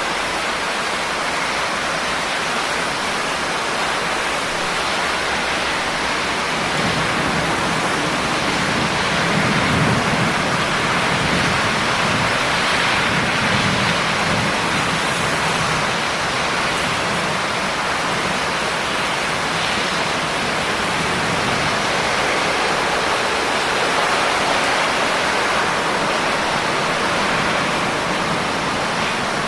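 Steady, heavy rain hissing on leaves and rocks. A low rumble swells in about a quarter of the way through and fades again about halfway.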